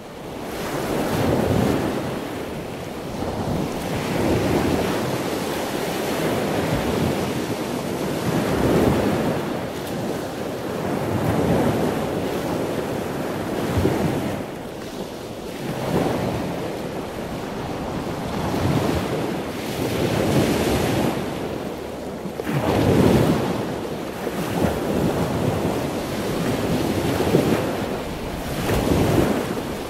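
Surf washing ashore: a rushing sound that swells and fades every two to three seconds.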